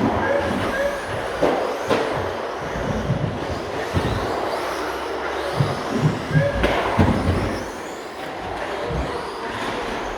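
Radio-controlled stadium trucks racing, their motors whining up and down in pitch, with knocks from the trucks landing or hitting the track. Short electronic beeps sound near the start and again about six and a half seconds in.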